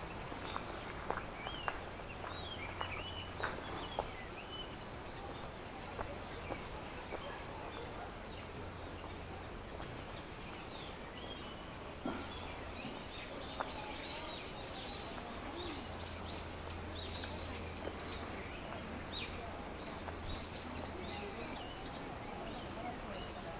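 Small birds chirping and calling over and over, most busily in the second half, over a steady outdoor background. A few sharp footsteps sound in the first few seconds.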